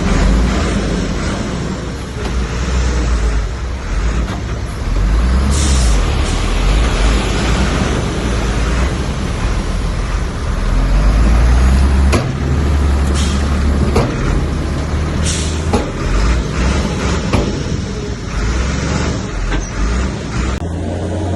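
Heavy diesel earthmoving machinery working: a loud, deep engine rumble that rises and falls, with short hisses and a few sharp metallic clanks.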